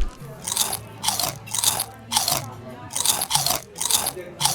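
Someone chewing a crunchy, onion-flavoured snack close to the microphone: a crisp crunch about twice a second.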